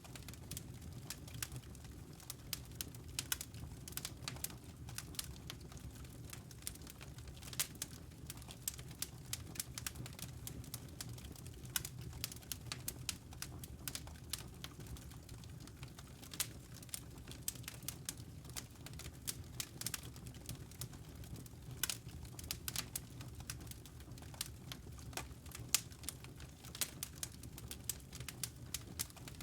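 Wood fire in a fireplace crackling and popping: irregular sharp snaps scattered throughout over a steady low rumble of the flames.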